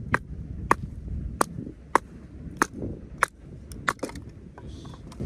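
Firewood being split by hand: repeated sharp strikes on a hard broadleaf log, about nine blows roughly half a second apart, with a quick cluster near four seconds in. The wood is hardwood and is very hard to split.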